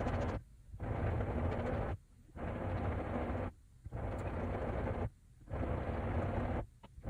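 Haier HW90-BP14636 front-loading washing machine, with a belt-driven inverter motor, turning its drum in short runs of about a second with brief pauses, roughly every second and a half, as it tumbles the laundry on a cotton wash.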